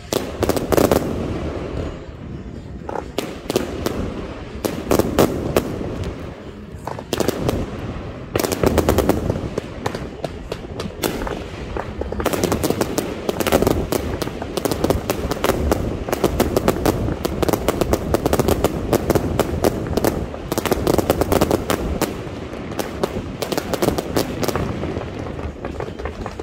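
Fireworks display going off: dense, rapid volleys of bursting reports, one on top of another, with a few brief lulls.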